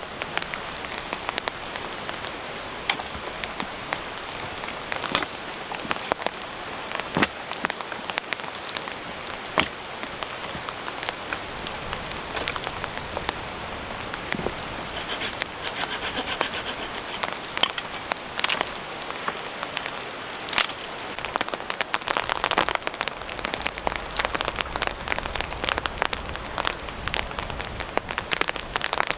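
Steady rain falling, with scattered sharp knocks every few seconds.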